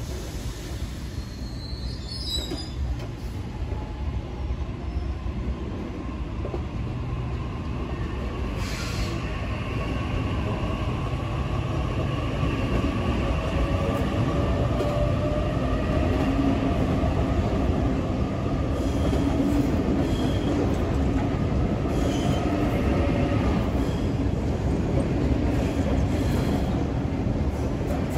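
Double-deck electric suburban train running slowly past on a curve: a heavy rumble that grows louder over the first half and then holds steady, with drawn-out, slowly wavering wheel squeal and a few clicks over the rail joints.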